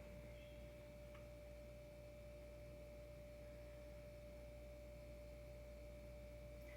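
Near silence: room tone with a faint steady high-pitched whine and a low hum, and one faint click about a second in.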